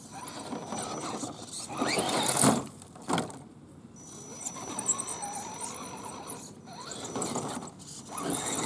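A radio-controlled 4x4 scale truck's motor and drivetrain whining, the pitch rising and falling with the throttle. It is loudest about two seconds in, and a sharp knock follows about three seconds in.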